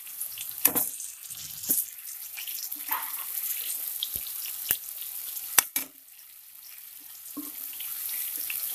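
Batter-coated chicken pieces sizzling in hot oil in a steel kadai, with a steady high hiss. A metal spatula clinks and scrapes against the pan several times as the pieces are turned over.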